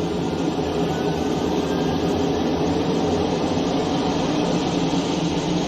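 Beechcraft 1900's turboprop engines running steadily during a propeller-balancing engine run, heard from the cockpit: a loud, even drone with several steady tones.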